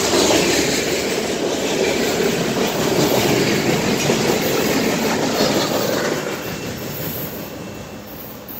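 Freight cars of a CSX mixed manifest train rolling past, their steel wheels rumbling and clattering over the rails. The sound fades over the last two seconds or so as the end of the train moves away.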